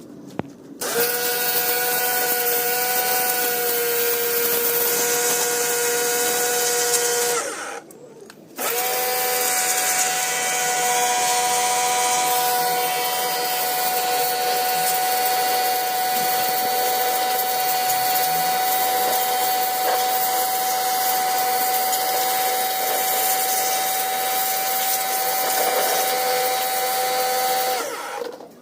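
A power tool's electric motor whining steadily at a constant pitch. It runs in two long stretches with a brief stop about eight seconds in.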